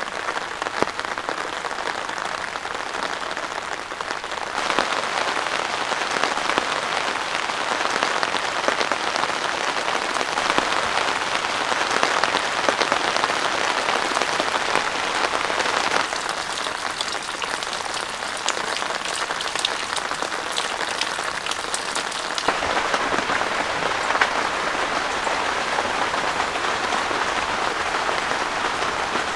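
Heavy rain falling without a break: a dense, even hiss of countless drops striking surfaces. It gets louder about four seconds in and shifts in tone again around sixteen and twenty-two seconds in.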